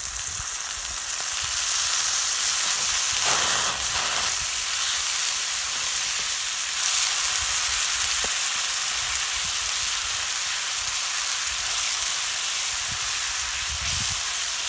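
Onion, tomato and spice masala sizzling steadily in oil in a non-stick frying pan, with a little water just added, while a spatula stirs it. The sizzle swells about two to four seconds in.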